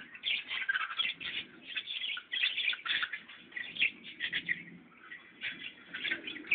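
Many birds chirping rapidly and continuously in dense, overlapping high twitters, with softer low calls underneath in the second half.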